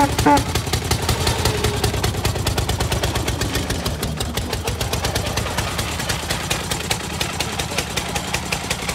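Engine of a veteran car about a hundred years old, running with a rapid, even chugging of exhaust beats. It eases slightly in level later on.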